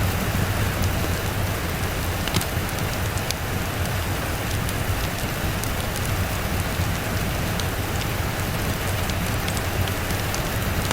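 Steady rain falling on a surface, with scattered sharp ticks and a steady low rumble underneath.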